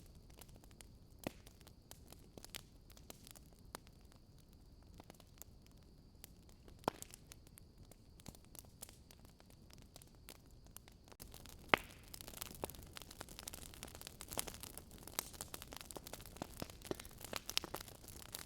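Wood fire in a fireplace crackling, with irregular sharp pops and snaps over a soft hiss. Two loud pops stand out, one about seven seconds in and one about twelve seconds in. From about eleven seconds the crackling becomes denser and hissier.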